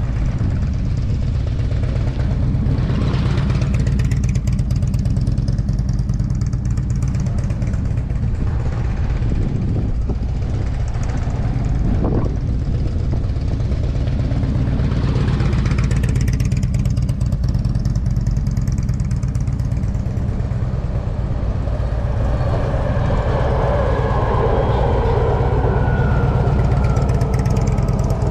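Motorcycle engine running with a steady low rumble; in the last few seconds a higher engine note slides slowly down.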